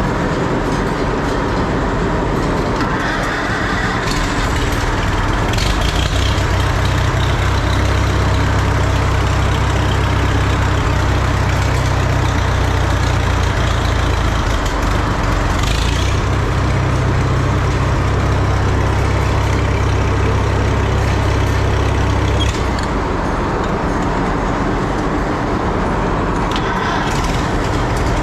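Antique tractor engine running, with a heavier low rumble that comes in about three seconds in, dips briefly midway and cuts off suddenly near the end.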